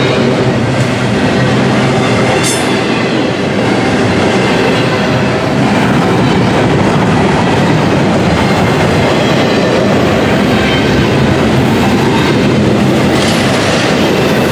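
Double-stack intermodal well cars of a CSX freight train rolling past close by: a loud, steady rumble and clickety-clack of steel wheels on the rails, with a faint high wheel squeal over it.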